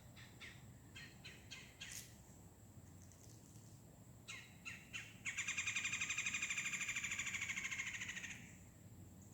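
A songbird calling: a few short chips, then a loud, fast trill lasting about three seconds that stops about eight seconds in.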